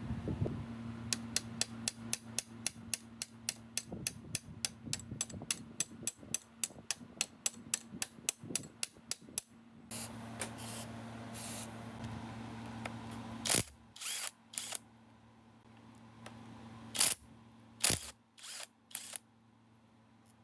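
A ratchet wrench clicking in a fast, even run of about four to five clicks a second. It is followed later by a few separate sharp metal knocks and clinks.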